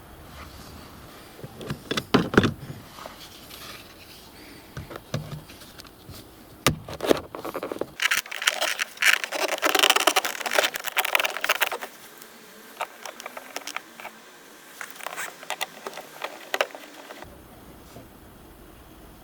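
Tools and metal parts being handled, giving irregular clicks, rattles and scrapes, busiest in a dense stretch from about eight to twelve seconds in.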